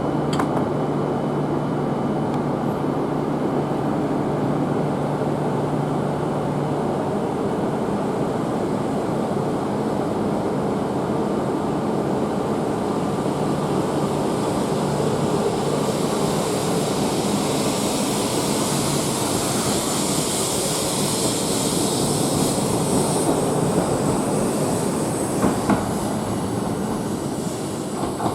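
Train running through the station: a steady rumble of wheels and motors, with a high hiss that builds about halfway through and fades near the end. Two short knocks come near the end.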